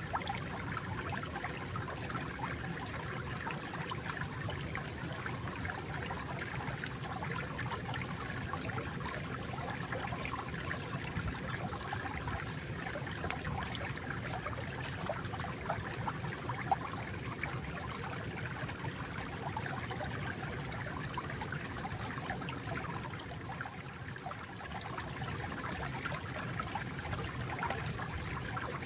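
Water flowing and trickling steadily, with small bubbling and splashing flickers throughout.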